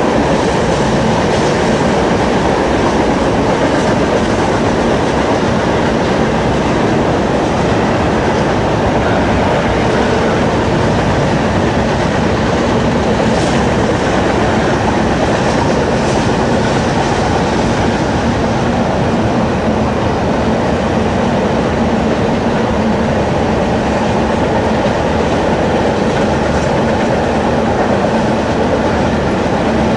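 A train rolling past, its railroad cars moving steadily along the track at an even, loud level.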